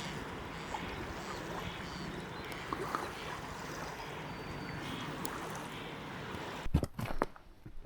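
Sea waves washing on the shore as a steady rush, with faint bird calls over it. About six and a half seconds in it breaks off into a few sharp knocks and thumps.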